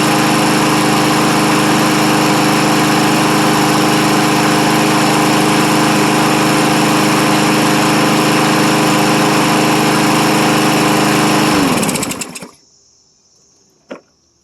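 Troy-Bilt self-propelled lawn mower's gas engine running steadily, its carburetor freshly cleaned. It is shut off about twelve seconds in: the pitch falls and the engine dies away. One brief knock follows near the end.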